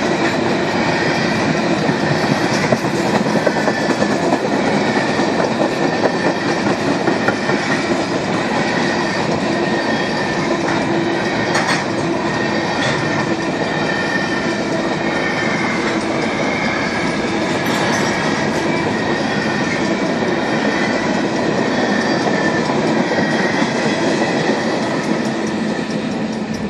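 Freight train of covered hopper cars rolling past a level crossing: a steady, loud run of steel wheels on the rails that eases slightly near the end as the last car goes by.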